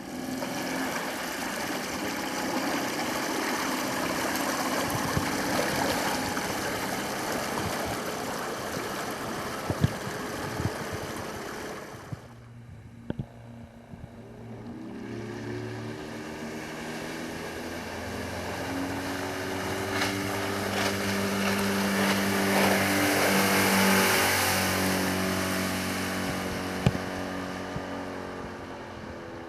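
Mercury 8 hp four-stroke outboard motor running as the jon boat gets under way, with a rush of water and wind over it. The sound drops briefly around twelve seconds in, then the engine's steady hum swells to its loudest a little after twenty seconds and fades again.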